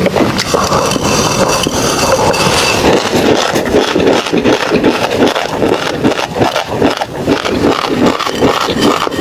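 Close-miked chewing of tobiko (flying fish roe): wet crunches in a quick, even rhythm of about three a second.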